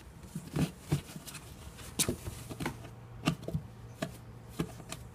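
A cat playing in a cardboard box: irregular knocks, taps and scratches of paws on cardboard.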